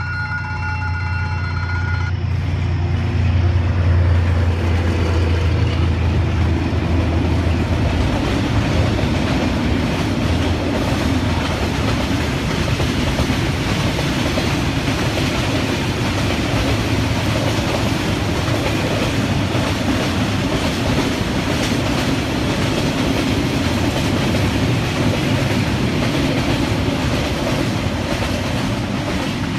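Diesel-hauled passenger train passing on the rails: a deep engine rumble for the first several seconds, then a steady rush of wheels and carriages.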